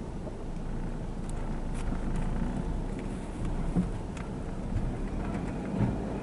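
Steady low rumble of a car running at low speed, heard from inside the cabin as it is lined up with a car wash conveyor, with a few faint clicks.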